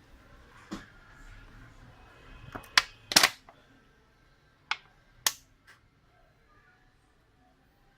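A handful of sharp, separate clicks and taps. The loudest is a quick cluster about three seconds in, with single clicks before and after it. They are typical of tools and parts being handled on a workbench during a phone screen repair.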